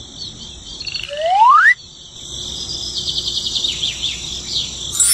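A chorus of high chirping and trilling animal calls, with one loud rising whistle lasting about half a second, a second in.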